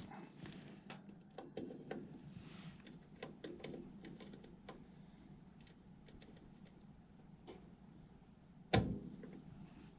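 Scattered light clicks and taps of hands and tools at work, with one louder knock about nine seconds in, over a faint steady low hum.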